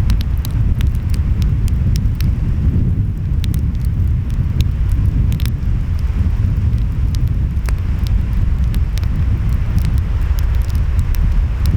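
Wood fire crackling with frequent sharp pops, over a steady low rumble of wind and surf.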